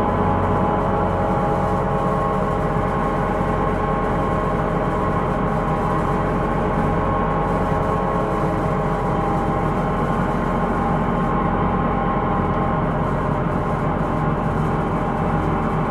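Cabin sound of a Hino Rainbow II non-step bus running along steadily: engine and road rumble overlaid by a steady ringing whine of several tones, the abnormal noise the recording is about.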